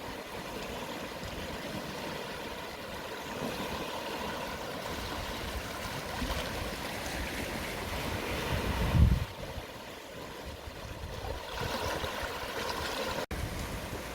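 Gentle sea waves washing ashore at low tide, a steady rushing wash with a louder low surge about two-thirds of the way through. A momentary dropout in the sound near the end.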